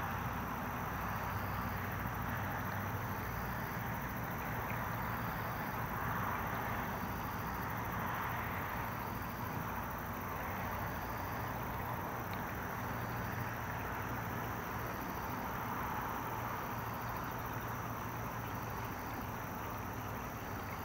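A train approaching from far down the line: a steady low rumble under an even, gently swelling outdoor noise.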